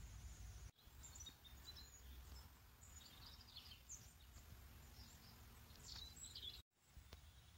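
Faint chirps and twitters of small birds, scattered short high calls, over a steady low background rumble outdoors.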